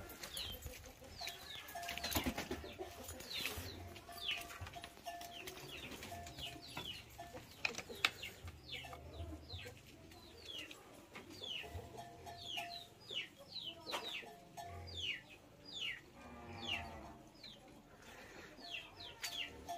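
Birds cheeping throughout: many short, falling high notes, several a second. A few sharp knocks come through, the loudest about eight seconds in.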